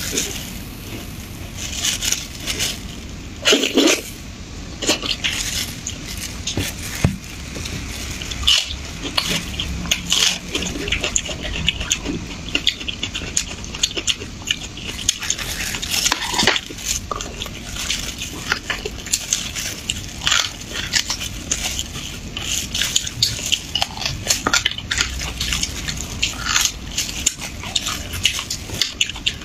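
Close-miked chewing and slurping of braised beef bone marrow, with many short wet mouth clicks and smacks.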